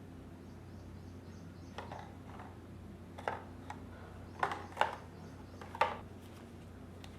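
A few sharp, light clicks and taps of small hard objects being handled, spaced irregularly and loudest in the middle, over a low steady hum.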